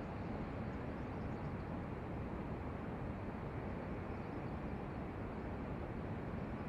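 Zeppelin NT airship's engines and propellers running in flight, a steady, even drone.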